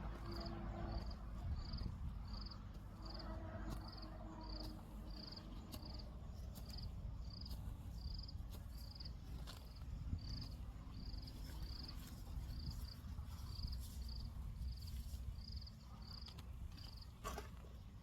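A small creature's short, high chirp repeated at an even pace, about one and a half chirps a second, over a steady low rumble. A couple of sharp knocks come near the end.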